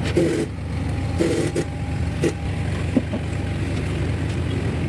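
Truck engine idling steadily, with a few short knocks and hissing bursts over it in the first three seconds.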